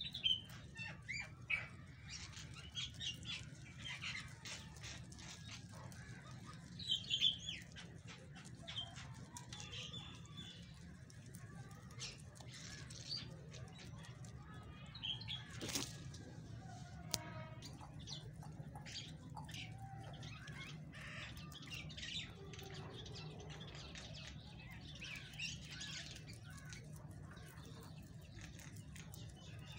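Small birds chirping on and off, busiest in the first several seconds, over a steady low hum. Rabbits tugging and chewing at a bunch of leafy greens add soft rustles and clicks.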